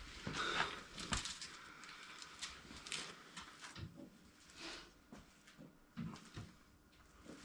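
Faint scattered clicks, knocks and scrapes of tools and parts being handled while working on a motorcycle's rear suspension linkage.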